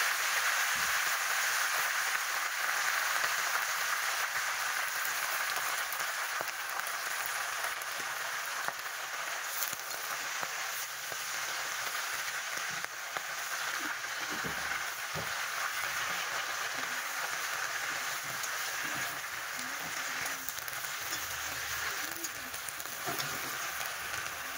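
Fresh leafy greens (saag) sizzling and hissing in hot mustard oil in an iron kadai as they wilt and steam, with a few light clicks and scrapes from a metal spatula turning them.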